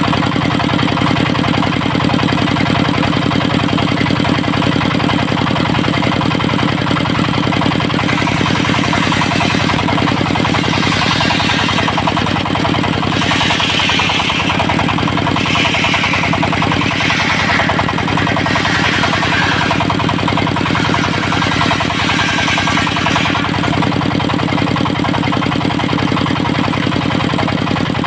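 Dongfeng diesel engine running steadily, driving a circular sawmill. In the middle stretch a higher, rasping noise comes and goes several times as the saw blade works into a teak log.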